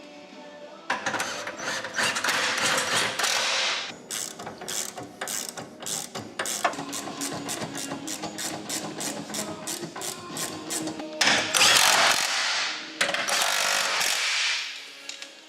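Hand ratchet wrench clicking: two fast dense runs of clicks, with a steadier series of separate clicks between them.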